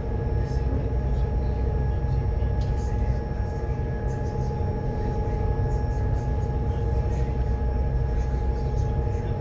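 Ferry's engines running: a steady low rumble with a constant hum of several steady tones above it.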